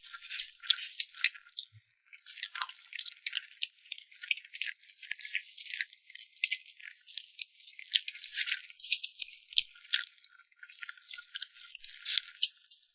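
Close-miked crunching of crisp food being chewed: a dense run of sharp crackling clicks with a brief pause about two seconds in.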